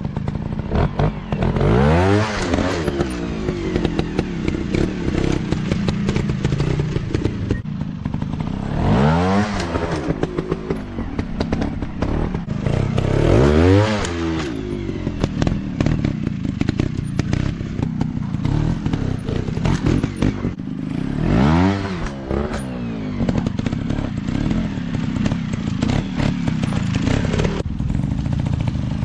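Dirt bike engines running under load, revving up and dropping back about five times, with clattering knocks throughout.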